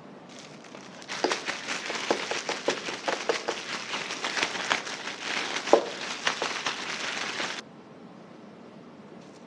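Food frying in hot oil in a pan: a dense sizzle with many sharp pops and crackles. It starts about a second in and cuts off suddenly near the end.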